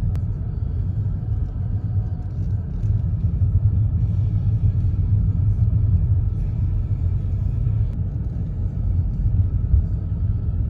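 Steady low road rumble of a car on the move, heard from inside the cabin.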